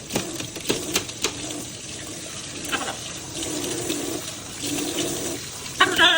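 Water running from a tap and splashing, with a few sharp clicks in the first second or so. Near the end comes a short wavering call, the loudest sound.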